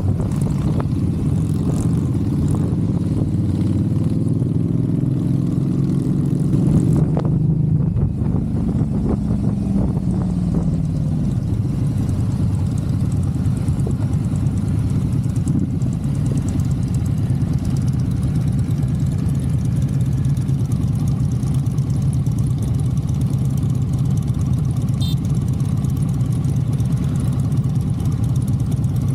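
Motorcycle engine running, its pitch climbing for the first several seconds as it speeds up, then falling back and holding at a steady note.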